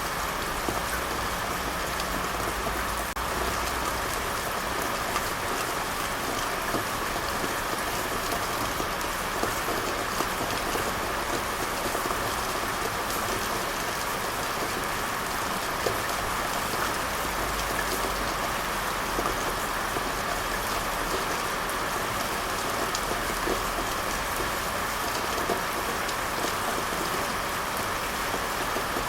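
Steady rain falling, with many fine drop ticks on a surface over an even hiss.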